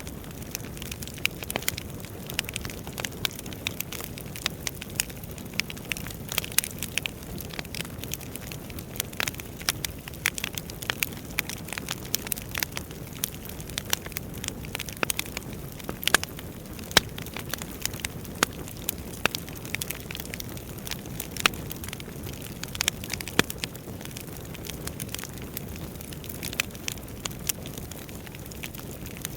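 Wood fire burning in a fireplace, with a steady low rumble of flames and frequent irregular sharp crackles and pops from the burning logs.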